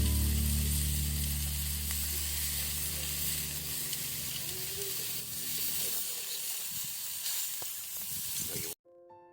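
Pizza sizzling in a skillet over a campfire: a steady hiss with faint crackles, cut off suddenly near the end.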